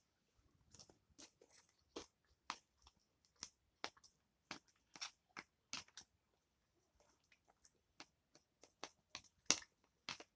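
A person chewing food close to the microphone: irregular crisp crunches and wet mouth clicks, with a short pause a little past the middle.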